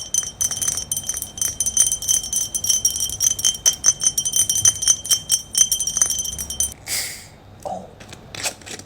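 Long fingernails tapping rapidly on a hard container, which rings with a steady high chime under the quick clicks. The tapping stops about seven seconds in, followed by a short hiss and a few last taps.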